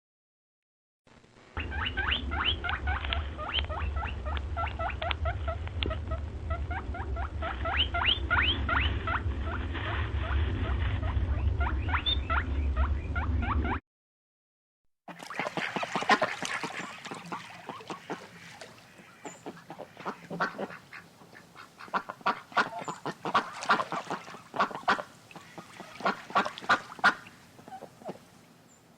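Waterfowl calling rapidly, many short calls a second, in two stretches split by a second-long break about halfway through; a steady low rumble runs under the first stretch.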